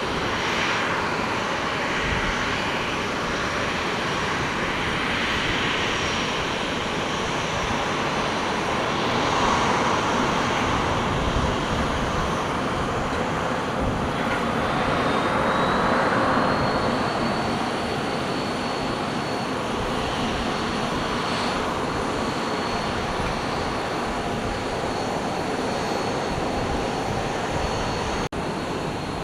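Jet airliner engines running, with a high whine that rises about halfway through and then holds steady.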